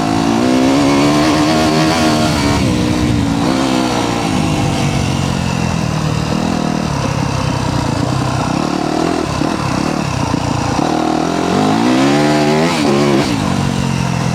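Yamaha YZ250F's four-stroke single-cylinder engine revving under throttle. Its pitch climbs in the first two seconds and drops off about three to four seconds in. It then runs lower for several seconds before revving up and falling back again about twelve seconds in.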